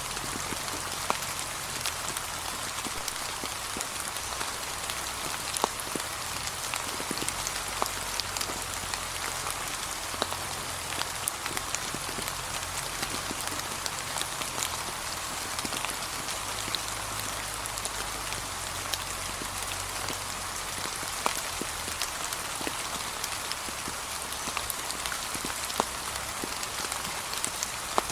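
Gentle steady rain falling on fallen autumn leaves, a soft even hiss dotted with the sharp ticks of individual drops.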